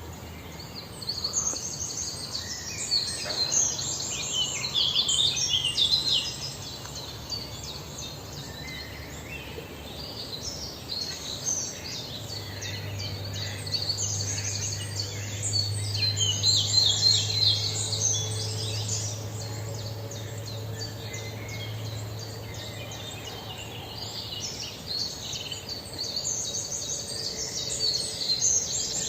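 Small birds chirping, many quick, overlapping high calls, with a faint low hum underneath through the middle stretch.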